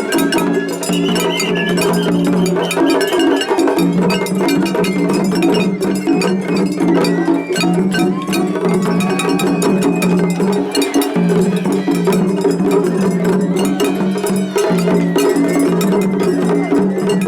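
Japanese festival hayashi music from two float bands playing against each other in a seriai: shinobue flute melody over taiko drums and a rapidly struck atarigane hand gong.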